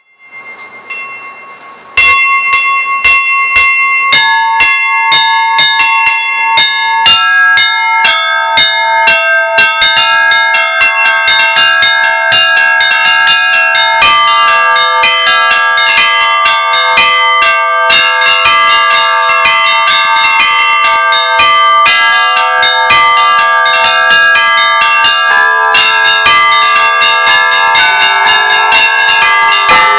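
Bells ringing in a peal: faint at first, then loud regular strikes from about two seconds in, a couple a second, quickening and thickening as more bells join, with deeper bells coming in about halfway through and again near the end.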